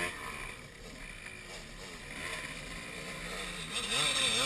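KTM 250 SX-F four-stroke single-cylinder motocross engine running at low revs, its pitch rising and falling and getting louder near the end, with wind hiss on the helmet camera's microphone.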